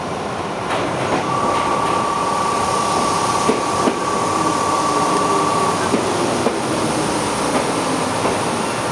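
Shizuoka Railway 1000 series electric train running slowly out of a siding, wheels clicking over the rail joints and points. A steady high-pitched tone sounds from about a second in until about six seconds.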